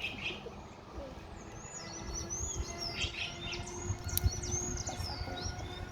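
Birds chirping, many short high calls that rise and fall, starting about a second and a half in. A single sharp snap about four seconds in.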